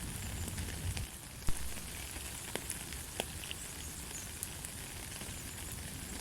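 Light rain falling steadily, an even hiss with scattered ticks of single drops and one sharp tap about a second and a half in.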